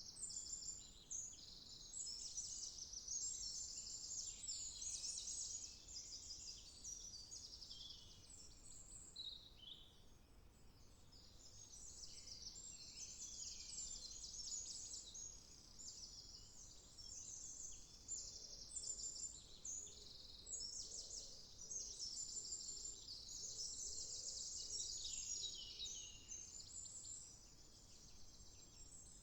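Woodland birdsong: several songbirds chirping and trilling in quick, overlapping phrases, with a brief lull about ten seconds in, over a faint background hush.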